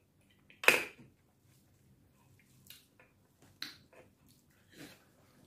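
Wet mouth sounds of eating: a sharp lip smack about a second in, then a few fainter chewing clicks.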